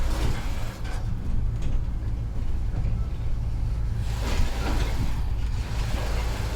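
Heavy truck running down the road: a steady low engine drone with road noise, and a louder hiss swelling about four seconds in.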